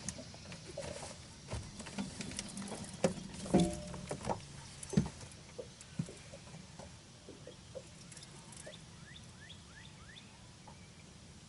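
Scattered clicks and knocks of a fishing rod and reel being handled aboard a boat as a fish is hooked, loudest in a few sharp knocks a few seconds in.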